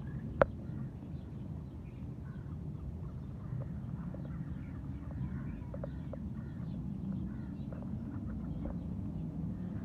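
Fowl making faint, short, scattered calls over a steady low rumble, with one sharp click about half a second in.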